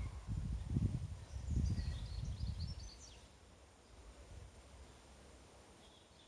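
Small birds chirping in quick high notes over an irregular low rumble that fades out about three seconds in, leaving a quiet outdoor background.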